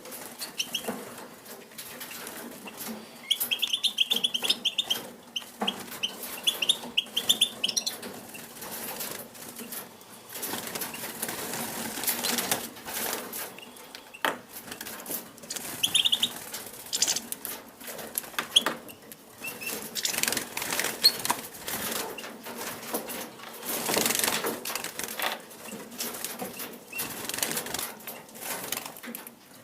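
Pine grosbeaks fluttering their wings as they come to take food from a hand, with irregular clicks and flutters throughout. A run of short high calls comes a few seconds in, and another call about halfway.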